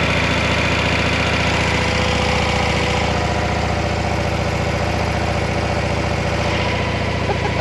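Harley-Davidson Low Rider ST's Milwaukee-Eight 117 V-twin idling steadily in neutral just after a start, with an even pulsing beat.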